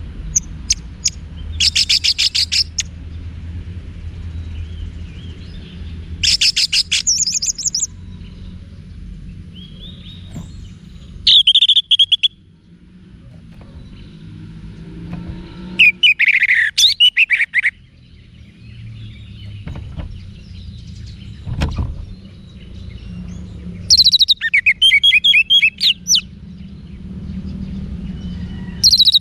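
Orange-headed thrush singing: about six short bursts of rapid, varied high phrases a few seconds apart, over a low steady background hum.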